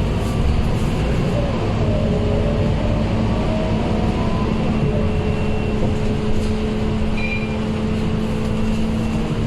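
Scania K230UB city bus's diesel engine running under way, a steady drone with a low rumble. Its pitch drifts a little at first, then holds steady.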